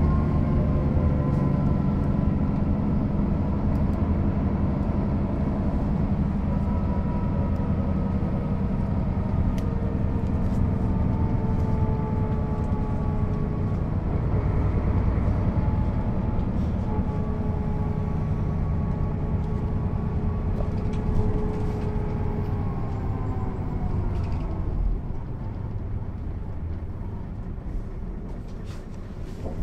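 1996 Mercedes-Benz O 407 bus's diesel engine running under way, its pitch drifting gently up and down with road speed. About 24 seconds in the pitch drops and the engine goes quieter, as when the bus slows or coasts.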